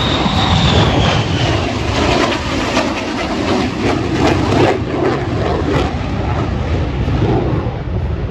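Lockheed Martin F-35A Lightning II's F135 turbofan engine during a flying display, loud and steady, with a high whine that drops in pitch in the first second or so as the jet passes.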